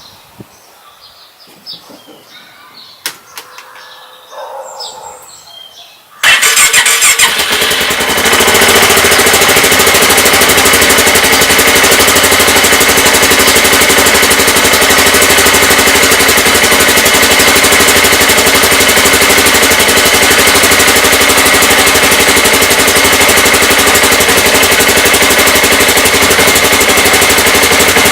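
Polaris RZR 570's single-cylinder engine cold-starting after two weeks sitting unused: it fires up suddenly about six seconds in, loud at first, then settles within a couple of seconds into steady running.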